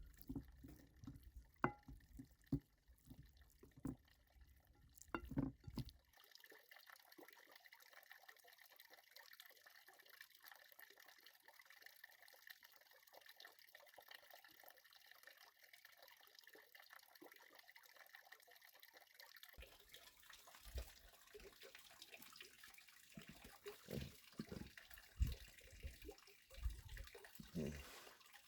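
Faint trickling and dripping water, with scattered small knocks in the first few seconds and again in the last several; in between, only a steady faint hiss.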